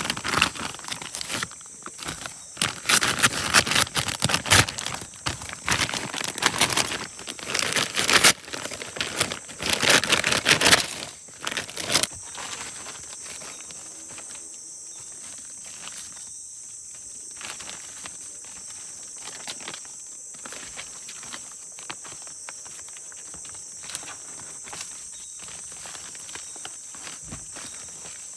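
Close rustling and crinkling handling noises for about the first twelve seconds, then a steady high-pitched chorus of forest insects with a few faint ticks.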